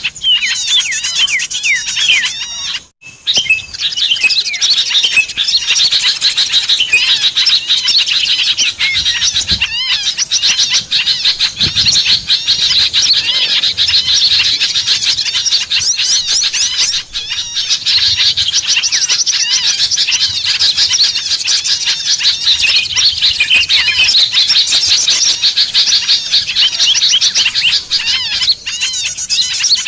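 Dense chorus of many small songbirds chirping and trilling rapidly over one another, a recorded lure call played to draw small birds in. It breaks off briefly about three seconds in, then carries on unbroken.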